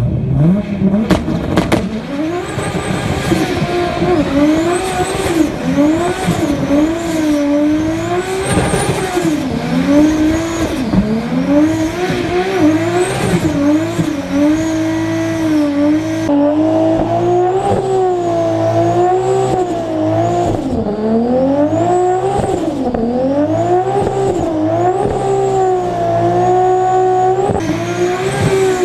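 Toyota Supra's turbocharged engine driven hard, revving up and falling back again and again as it runs up through the revs and shifts, with a high whistle rising and falling along with it. The sound changes abruptly twice, about two-thirds of the way in and near the end.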